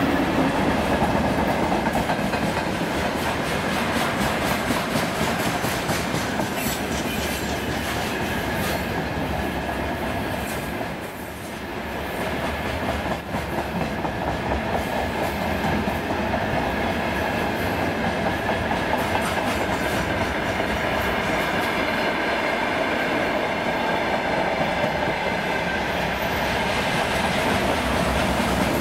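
A long freight train's wagons rolling past at speed, the wheels clattering rhythmically over the rails in a steady clickety-clack, briefly quieter about eleven seconds in.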